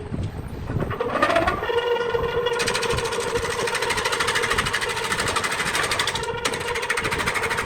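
Wood lathe motor spinning up with a rising whine, then running at a steady hum while a turning tool cuts the spinning wood with a fast, continuous chattering rattle. The rattle stops for a moment near the end, then starts again.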